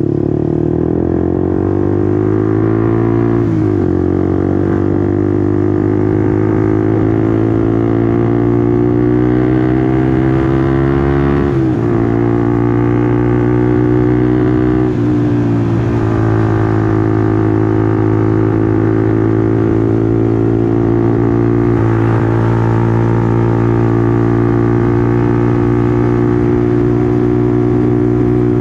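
Honda CBR150R's single-cylinder engine accelerating through the gears. Its pitch rises, drops sharply at three upshifts in the first half, then holds steady at cruising speed.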